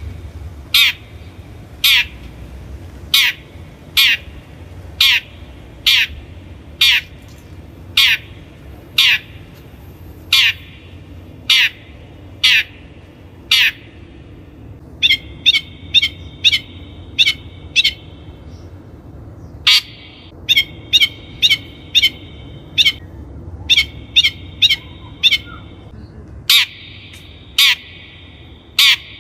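Long-tailed shrike giving harsh, squawking calls, each a quick downward sweep, about one a second. In the second half the calls come faster, over a steady buzzy chatter.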